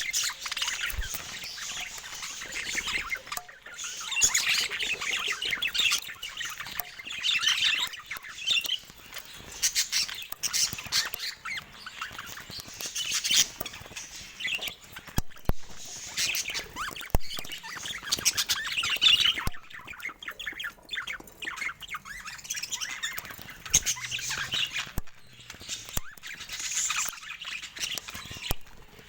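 Budgerigars chattering and chirping in a busy, continuous warble, with scattered sharp clicks.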